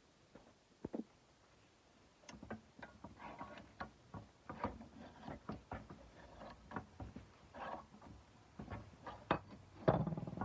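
Hand sanding on a steel kukri blade: short, scratchy sandpaper strokes mixed with irregular clicks and knocks as the blade and paper are handled. The activity starts about two seconds in, after a quiet moment with a couple of clicks.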